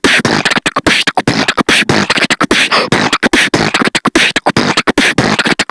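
A loud run of fast, rhythmic clicks and voice-like vocal sounds, like beatboxing or a snatch of music, that cuts in and out abruptly.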